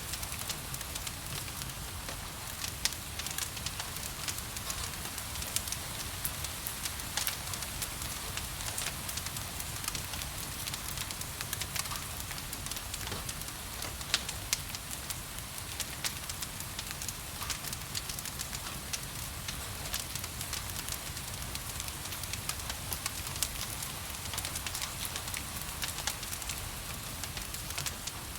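Wood fire crackling and popping with sharp irregular snaps, over a steady hiss of rain.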